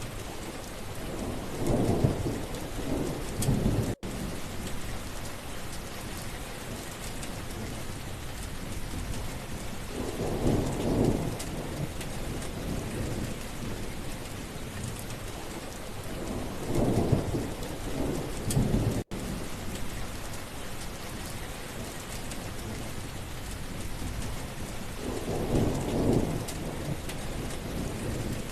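Steady rain falling, with rolling thunder that swells and fades four times, roughly every seven to eight seconds.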